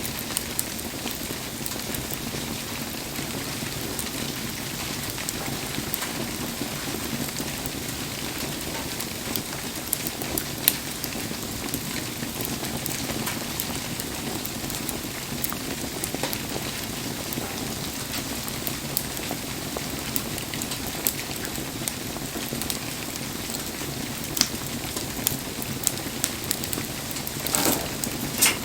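Steady rain falling around a wood campfire, with scattered sharp pops and ticks and a brief louder burst of noise near the end.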